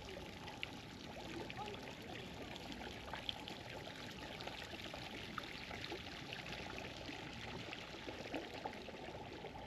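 Water running and splashing steadily, a continuous rush full of small droplet crackles.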